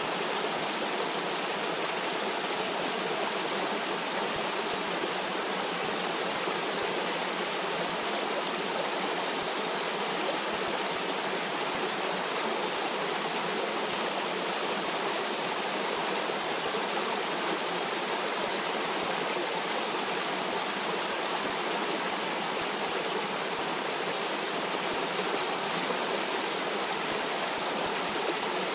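Stream water flowing and rushing steadily, an even, unbroken rush of water.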